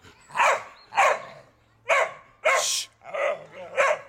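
A dog barking repeatedly, six barks about two-thirds of a second apart.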